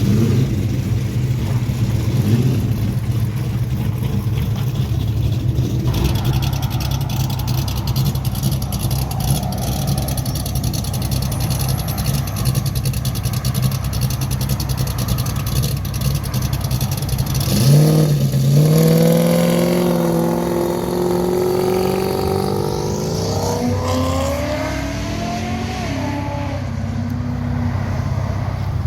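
A car engine idling with a steady low rumble. About two-thirds of the way through, a car revs and accelerates away, its engine note rising over several seconds and then fading.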